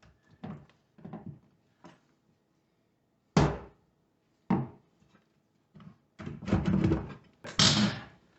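A series of hard knocks and clunks: one loud knock a little over three seconds in, another about a second later, then a run of clattering knocks near the end.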